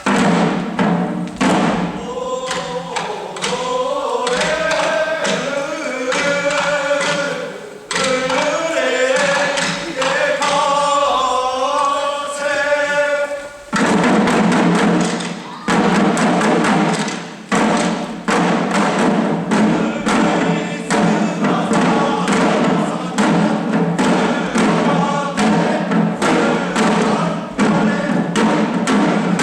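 Deer-dance (shishi odori) troupe singing together in a chant-like song, punctuated by drum strokes. About 14 seconds in the singing stops and the dancers' drums take over, beating a fast, steady rhythm.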